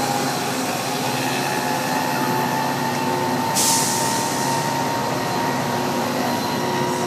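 Metra commuter train at the platform: a steady drone with an even high tone running through it, and a sudden burst of hiss about three and a half seconds in.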